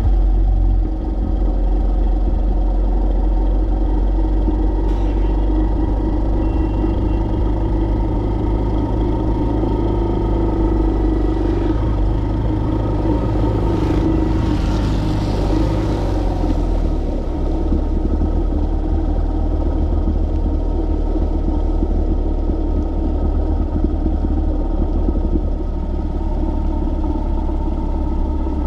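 A car driving on the road: steady engine and road rumble. About halfway through, a brief hiss rises and fades over a couple of seconds.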